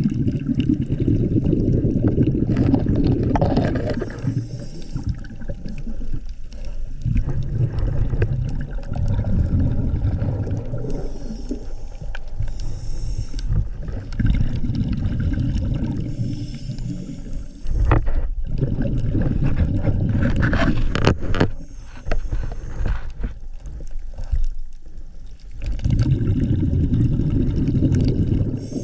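Scuba diver breathing through a regulator underwater: five long, low, bubbling rushes of exhaled air, each lasting a few seconds, with quieter gaps between them while the diver inhales.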